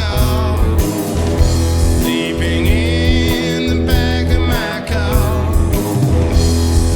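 Band music: an instrumental passage of an Americana-blues song, with a pulsing bass line, held chords and a high wavering lead melody.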